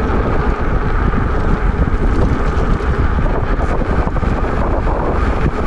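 Wind buffeting the microphone of a GoPro on a moving e-bike: a loud, steady rush with gusty low rumble.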